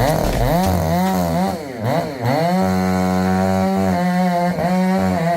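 Chainsaw engine revving, its pitch swooping up and down several times and held steady at high speed for about a second in the middle.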